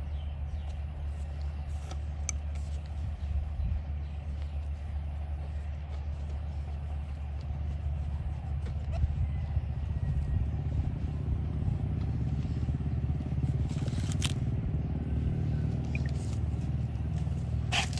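A machine running with a steady low hum, growing a little louder about halfway through, with a few sharp clicks and knocks on top.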